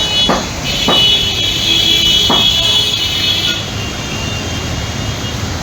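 Steady street noise with vehicles, and a high-pitched whine from about a second in until past the middle. A few brief cries are heard over it.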